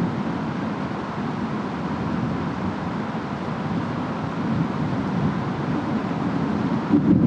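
Steady storm ambience of wind and rain, a dense noise weighted to a low rumble, swelling slightly near the end.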